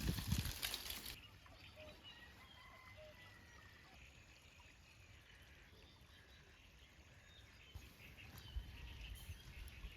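Quiet outdoor ambience with faint, scattered bird calls, including a short whistled glide about two seconds in. In the first second there is a brief noisy rustle with low knocks, and knocks come back near the end.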